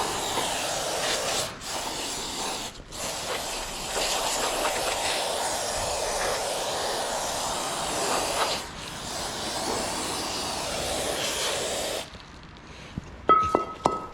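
Aerosol parts cleaner spraying in long bursts with brief pauses. The spray stops near the end, and a couple of sharp metallic clinks that ring briefly follow.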